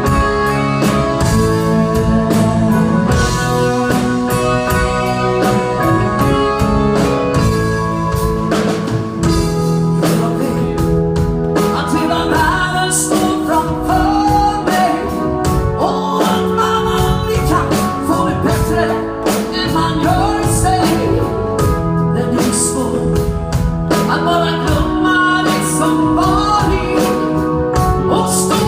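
Band music with drums, electric guitar and keyboard-like sustained tones playing a steady beat; a lead singer comes in about twelve seconds in.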